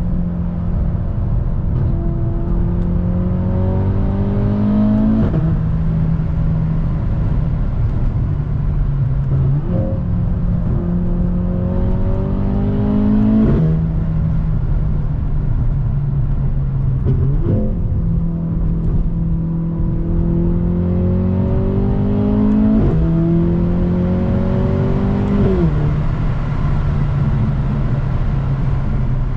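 Mercedes-AMG W206 C43's turbocharged four-cylinder, breathing through a Fi Exhaust and catless Redstar downpipe, pulling hard again and again. Each time the engine note climbs for a few seconds and then drops sharply at a gear change, with a few short revs in between.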